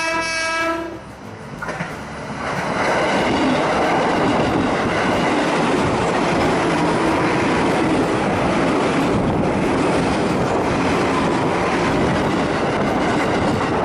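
Commuter electric train running past close by: a steady, loud rumble of wheels on the rails with clickety-clack, building up about two seconds in and holding.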